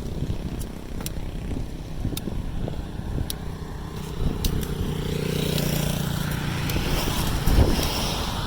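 Motorbike riding on the road: low rumble of wind and road noise with the engine running, and a steadier engine hum coming up about halfway through.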